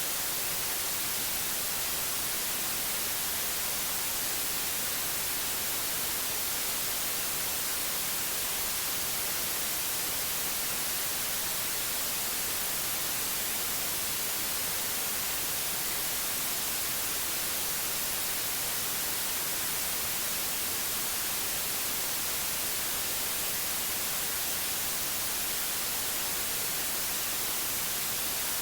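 Steady white-noise hiss, even and unchanging, strongest in the high frequencies.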